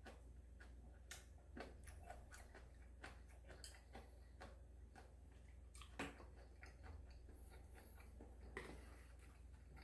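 Faint, scattered eating sounds: soft clicks and mouth noises of someone chewing ramen and green onion kimchi, with a louder click about six seconds in.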